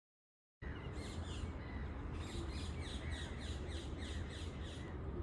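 Bird calls: a regular run of short, falling chirps, about three a second, starting about half a second in, over a steady low rumble.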